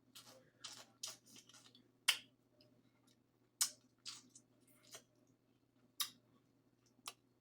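Close-up eating sounds from a seafood boil: scattered sharp clicks and crackles, about nine in all, the loudest about 2, 3.5 and 6 seconds in, with a faint steady hum beneath.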